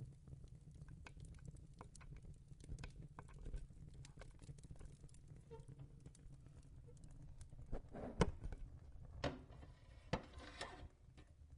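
Faint, irregular crackling of a fireplace over a low hum, with a few louder rustles and clicks of crochet hook and yarn handling about eight to eleven seconds in.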